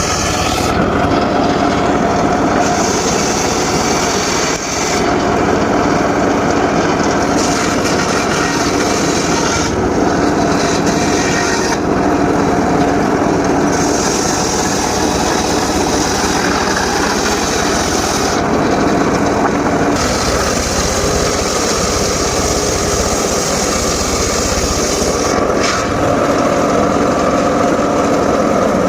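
Homemade engine-driven circular saw running steadily while sawing mahogany. A sharper, higher edge to the sound comes and goes every few seconds as the blade works through the wood.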